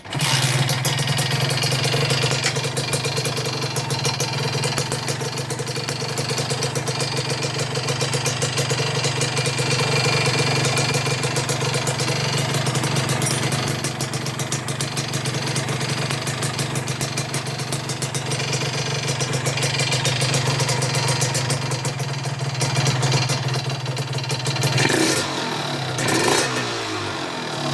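Kawasaki Ninja RR's single-cylinder two-stroke engine running steadily with a rough, noisy 'ngorok' (snoring) sound, which the owner presents as the sign of a rough-running engine. The engine note shifts briefly near the end.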